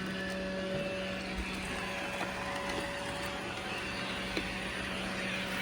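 iRobot Roomba robot vacuum running, a steady motor hum with a constant low tone.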